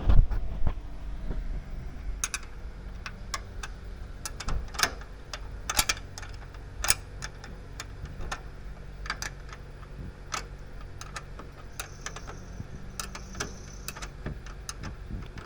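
Irregular sharp clicks and taps, like metal hand tools being handled, over a steady low hum, with the loudest knock about a quarter-second in.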